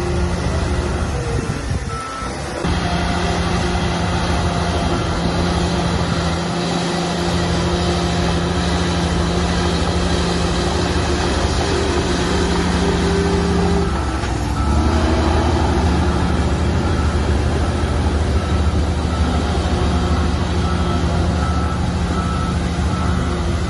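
Heavy earthmoving machinery engines running steadily, with the engine note changing about two seconds in and again around fourteen seconds. A reversing alarm beeps over and over through the second half.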